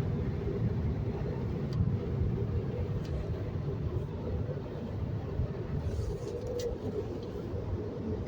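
Touch-free car wash dryer blowers running, heard muffled from inside the car as a steady low rumble; they are working, but not very well. A few faint ticks sound about two, three and six and a half seconds in.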